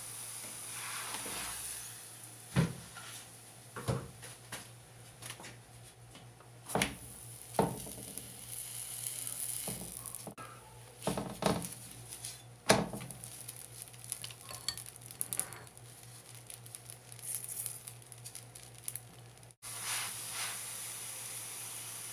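Methi paratha frying in oil on a flat nonstick tawa, a steady sizzle. Several sharp knocks and clatters against the pan come through it, the loudest about halfway through as the paratha is turned over by hand.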